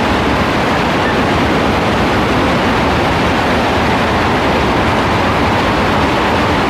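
Heavy rain falling, a loud steady hiss with no letup.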